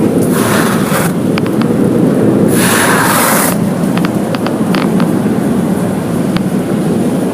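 Automatic car wash machinery running, a steady low rumble with two hissing bursts of spray about a second long each and scattered light ticks.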